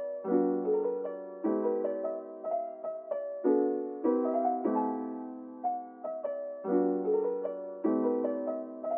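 Background piano music: soft chords and melody notes struck about once a second, each fading away, with no drums or bass.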